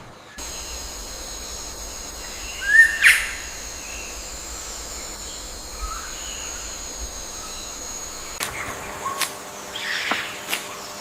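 Birds calling: scattered short chirps and a rising call, the loudest about three seconds in, over a steady high-pitched drone.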